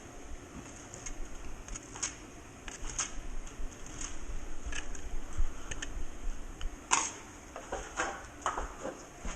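Drywall knife scraping and ticking against the ceiling while spreading and feathering joint compound, in irregular short strokes that grow busier in the second half.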